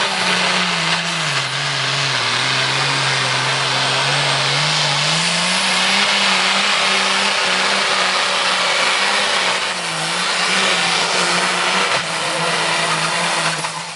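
Competition pulling tractor's engine running hard under heavy load, its revs sagging a couple of seconds in and then climbing back up, with another short dip later on.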